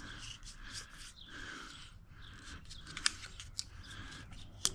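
Short rasping, rustling strokes about twice a second with a few sharp clicks near the end: hand work winding thread-seal tape onto a plumbing fitting.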